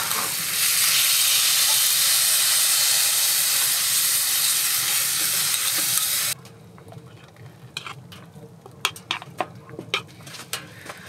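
Loud sizzling hiss as a pan of hot stir-fried vegetables is tipped into a pot of ramen. The sizzle cuts off suddenly about six seconds in, leaving faint scattered clicks and taps.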